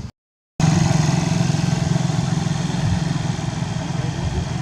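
An engine running steadily at idle, cutting in abruptly after half a second of dead silence.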